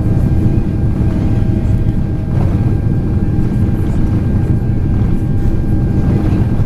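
Steady engine and airflow noise of a Boeing 767-400ER in flight, heard inside the cabin, with a faint steady whine above the low drone.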